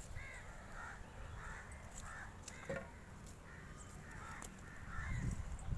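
Crows cawing over and over in short repeated calls, with a low rumble about five seconds in.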